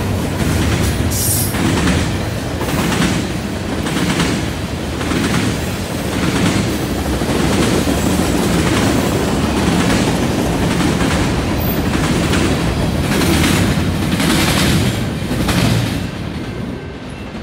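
Freight train cars (tank cars and a centerbeam flatcar) rolling past, with a steady rumble and steel wheels clicking rhythmically over the track about once a second. The sound fades near the end as the last cars move away.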